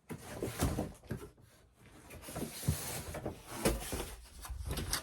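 Foam board and sheets of sticker vinyl being picked up and moved about: scattered knocks and taps, with a papery rustle around the middle.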